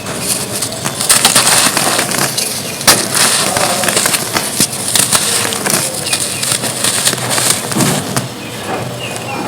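Dry red dirt cones being crumbled: a dense run of gritty crunching and crackling snaps, with one sharp, loud snap about three seconds in.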